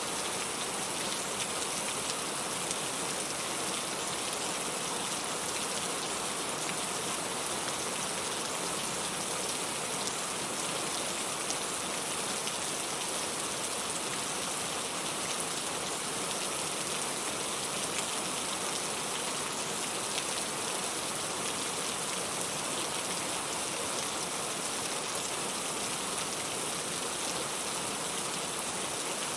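Steady rain falling: an even, unbroken hiss that is brightest in the high treble and never changes in level.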